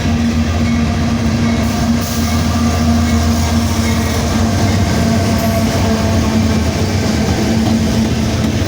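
Two freight trains passing close by at the same time: a loud, steady rumble of wheels on rail with a steady low hum.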